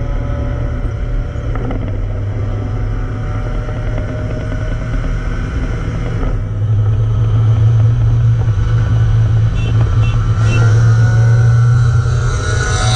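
Car engine droning steadily under way, heard from inside the cabin over road noise. It grows louder about six and a half seconds in, the note rising slightly toward the end.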